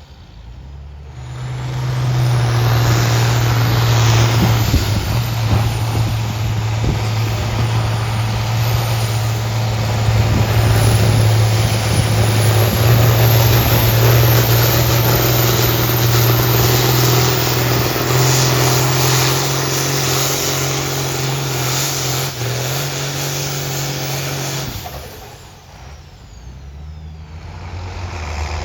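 A pulling tractor's engine held at full throttle under heavy load as it drags the sled down the track. It comes up about a second in, runs steady and loud for over twenty seconds, then drops off sharply near the end and settles to a lower idle.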